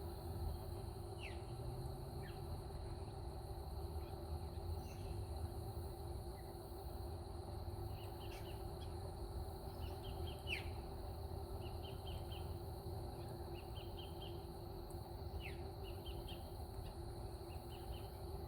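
Wild birds chirping: short single calls and quick runs of three or four notes, with a few falling notes, over a steady background hum.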